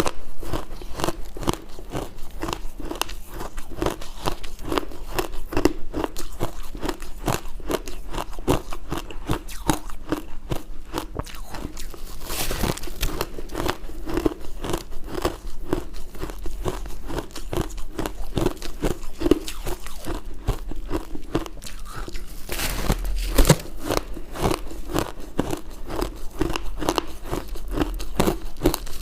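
Ice being bitten and chewed up close: a dense, continuous run of crisp crunches, with a couple of louder bites along the way.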